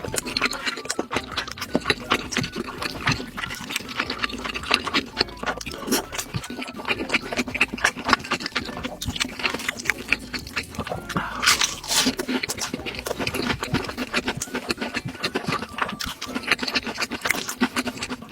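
Close-miked chewing and wet mouth sounds of a person eating, with rapid, irregular clicks and smacks throughout.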